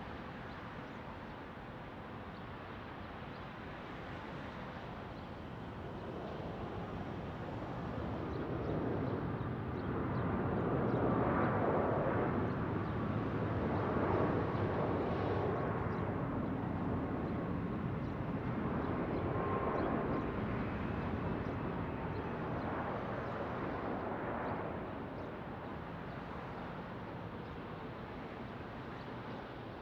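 Jet airliner passing the airport, its engine noise swelling to a peak about eleven to fifteen seconds in and then fading away, with a faint whine above the rumble.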